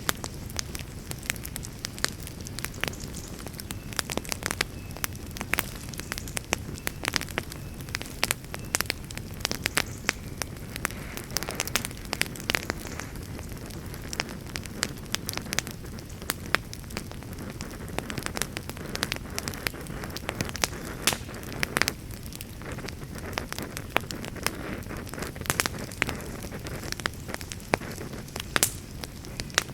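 Campfire crackling: irregular sharp pops and snaps of burning wood, many every second, over a steady low rush.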